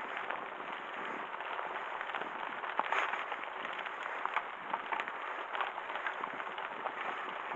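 Bicycle rolling along a narrow dirt forest trail: tyres crunching over twigs and debris, with a steady run of small crackles and rattles and a sharper crack about three seconds in.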